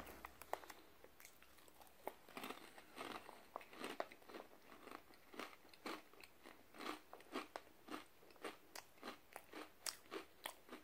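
A person chewing a mouthful of crunchy corn chips. It is a quick run of faint crunches, a few at first and then about three a second.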